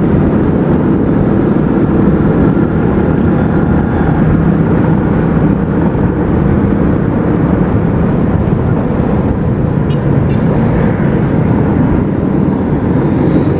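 Motorcycle running steadily while being ridden: a constant engine drone with rushing noise, level throughout with no revving or stops.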